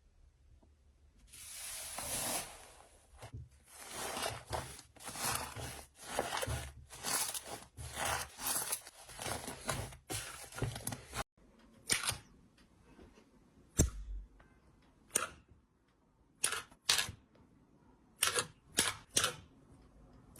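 Slime being worked by hand: a run of soft squishing strokes, about two a second. After a sudden break about eleven seconds in come separate sharp clicks and pops.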